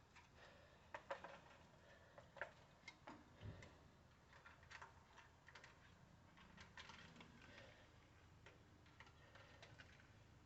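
Faint, irregular clicks and light taps of small parts being handled, as the air filter and its plastic cover are fitted back onto a small 3 hp gasoline engine; otherwise near silence.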